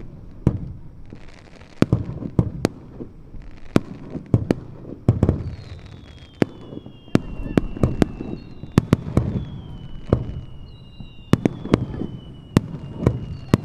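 Aerial fireworks from Yamazaki Fireworks bursting in quick succession, a stream of sharp bangs over a low rolling rumble. From about five seconds in, several thin whistles fall in pitch over a second or two each.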